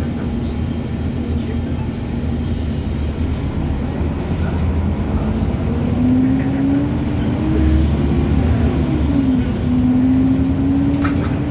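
MAN Lions City G articulated bus's differential and gearbox whining under acceleration, over a steady low drivetrain and road rumble. The whine rises in pitch, drops briefly about nine seconds in, then climbs again.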